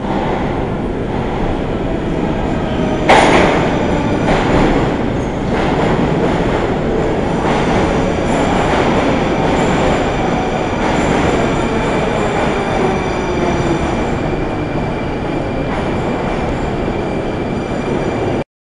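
Train running on the rails: a steady loud rumble and rattle of wheels, with a sharp bang about three seconds in and a few weaker knocks after it. Thin high whining lines join in the second half, and the sound cuts off suddenly near the end.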